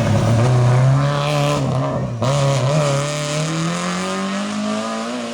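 Rally car engine under hard acceleration, with a brief lift off the throttle about two seconds in, then the engine note rising steadily as it pulls through the gear.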